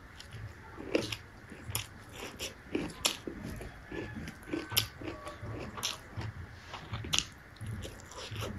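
Close-up chewing of a hand-fed mouthful of rice and stir-fried fermented bamboo shoot, with wet mouth clicks and light crunches about twice a second.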